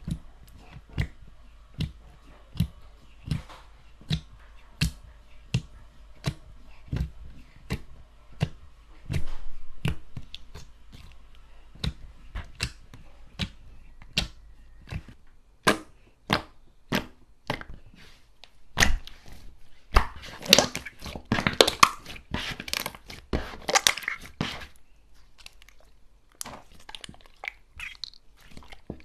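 Slime being pressed and worked by hand, giving a steady run of sharp clicking pops, roughly one a second. About two-thirds of the way through it turns to a dense crackling.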